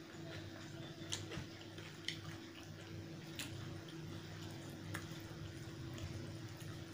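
Close-up eating sounds of chicken curry and rice: a handful of sharp wet clicks and smacks, spaced about a second apart, over a steady low hum.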